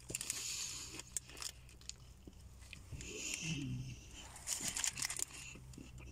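A person chewing a mouthful of a beef sandwich with soft, irregular chewing noises, along with a few light crinkles of the sandwich's paper wrapper.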